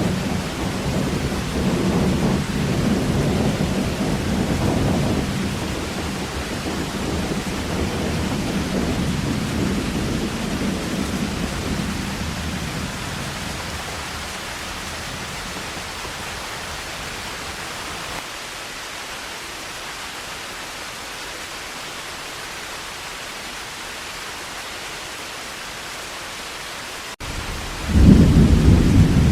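Heavy rain falling steadily with thunder. A long low rumble dies away over the first half, leaving only the rain, then a fresh loud rumble of thunder breaks in near the end, just after a brief dropout in the sound.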